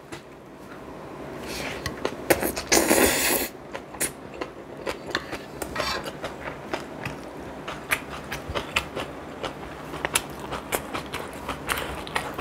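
Close-miked eating: chewing and mouth sounds made of many short, sharp clicks, with one louder, rougher noise about three seconds in.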